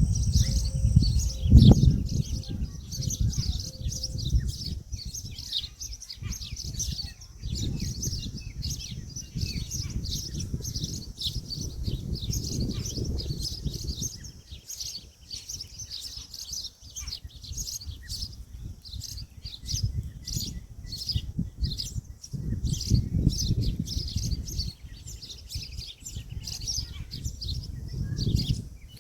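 Dense, continuous twittering of small birds, many quick high chirps overlapping. A low rumble comes and goes under it, loudest about a second and a half in.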